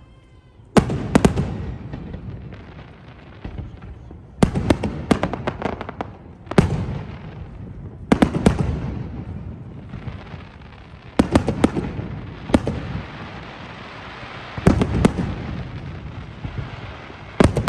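New Year fireworks going off: groups of sharp bangs every couple of seconds, with crackling and rumbling echo between them.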